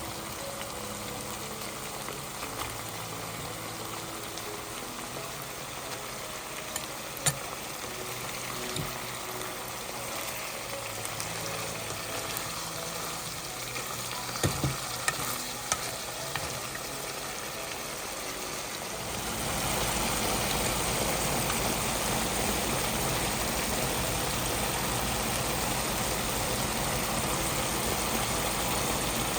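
Food stir-frying in a pan: a steady sizzle with a few sharp clicks of the utensil against the pan. About two-thirds of the way through, the sizzling turns suddenly louder and fuller.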